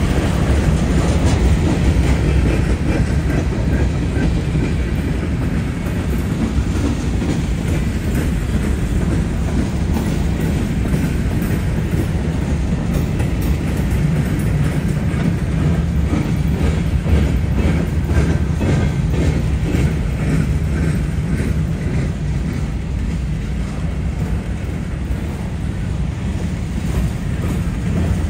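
Freight train rolling past steadily: a low rumble with its wheels clicking over the rail.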